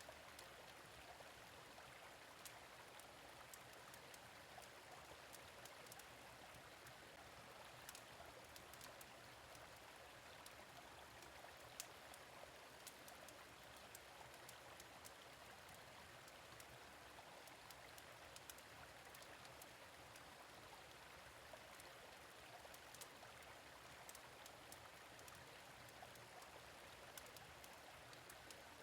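Gentle stream flowing steadily, with scattered short crackles and pops from a wood fire in a fire pit.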